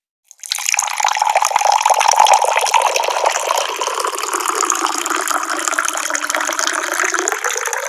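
Water pouring from a tap and splashing, starting abruptly about half a second in after a brief silence and running steadily from then on.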